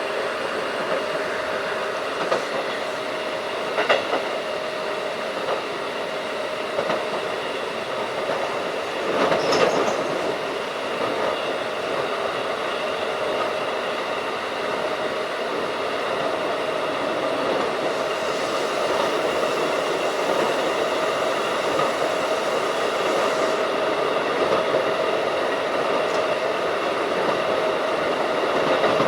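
Keikyu 1500 series field-chopper electric train running at speed, heard on board: a steady rolling and motor noise with faint steady tones, occasional sharp rail-joint clicks, and a brief louder rush about nine seconds in.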